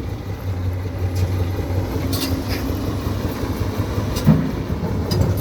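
Heavy vehicle engine idling with a steady low hum, with a few short clanks about two seconds in and a louder knock a little after four seconds.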